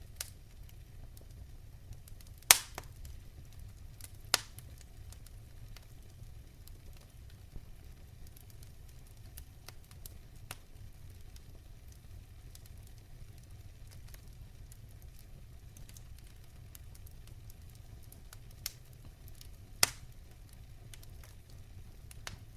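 Fireplace fire crackling: a low steady rumble under sparse sharp pops, the loudest about two and a half seconds in and near the end, with a few fainter ones between.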